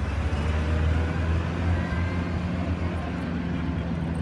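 Diesel pulling truck engine running with a steady low drone and a held tone just under 200 Hz.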